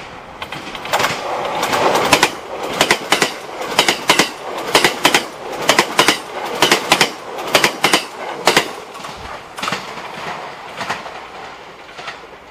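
A train passing close by on jointed track, its wheels clicking over the rail joints in quick pairs. The clicking swells up, is loudest through the middle and fades away near the end.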